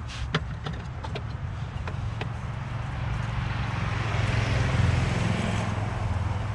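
A steady low rumble runs throughout, and a rushing vehicle noise builds from about three seconds in, peaks near five seconds and eases off. A few light clicks come in the first couple of seconds.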